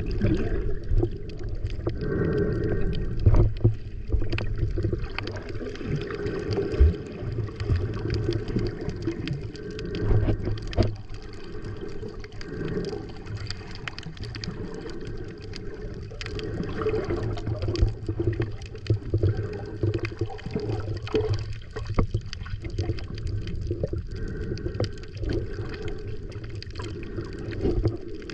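Muffled water sloshing and gurgling around a camera held in the sea while snorkeling, with frequent small crackles and knocks throughout.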